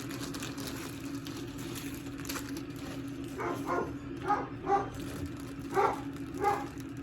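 A dog barking: about six short barks in quick succession, starting about halfway through, over a steady low hum.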